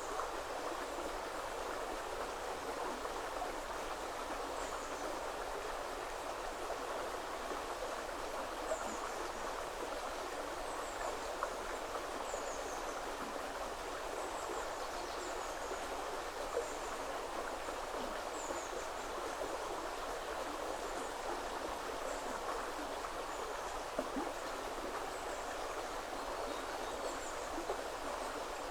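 River water flowing steadily, with a broad rushing sound and now and then a brief louder splash or plop. Faint, high, thin bird chirps repeat every second or two above it.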